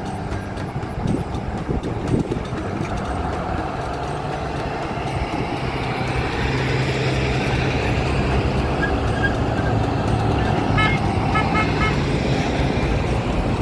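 A motor vehicle's engine rumbling steadily and growing louder partway through, with a few short high beeps near the end.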